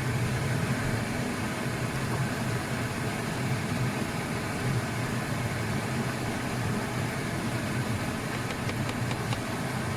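Steady mechanical hum, like a kitchen fan or appliance running, with a few faint light clicks near the end.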